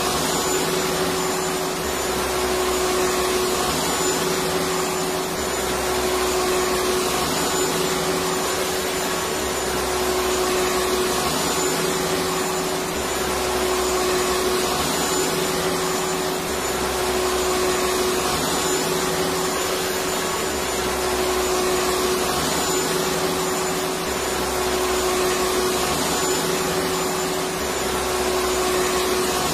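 Electric vacuum cleaner running continuously: a steady whooshing motor noise with a held hum tone, swelling slightly in level about every three and a half seconds.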